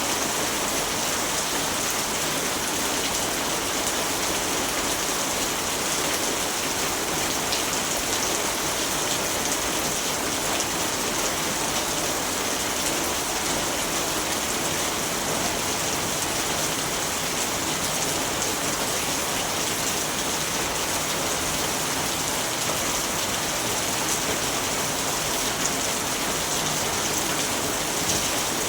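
Steady rainfall, an even rushing hiss of rain falling on a surface, with no thunder or breaks.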